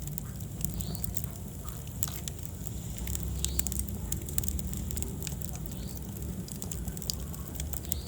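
Wood fire burning in a fireplace: a steady low rumble of the flames with many irregular sharp crackles and pops.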